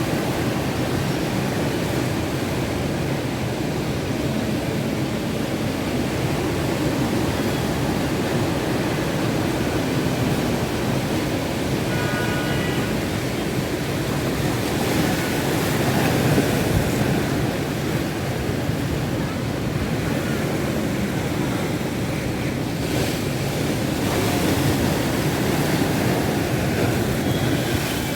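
Monsoon sea surf breaking and washing in a steady roar, with wind, swelling louder about halfway through and again near the end.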